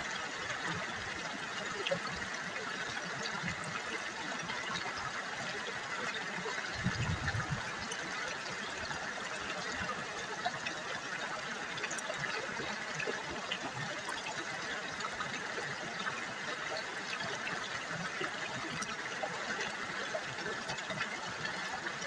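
River water babbling and trickling steadily, with a brief low thump about seven seconds in.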